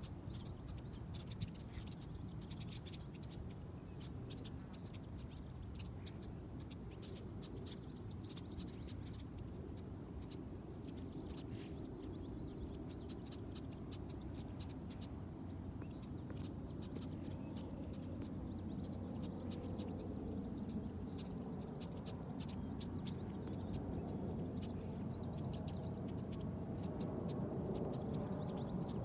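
Insects trilling steadily in one unbroken high-pitched band, with a low rumble growing louder toward the end.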